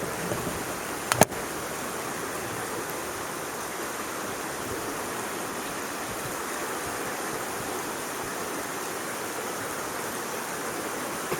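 Steady rushing noise, like running water, with one sharp snap or click about a second in.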